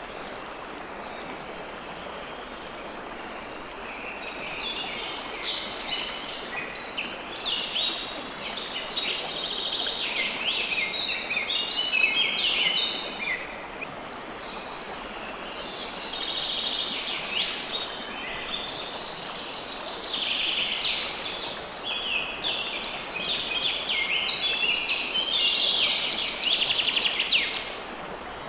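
River water flowing steadily, with many small birds chirping in quick overlapping calls over it. The birdsong is sparse for the first few seconds and drops out briefly around the middle.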